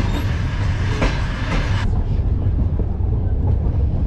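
Steady low rumble of a Soviet-era sleeper train carriage running on the rails, heard from inside. A louder rushing hiss over it for the first two seconds stops suddenly about halfway through.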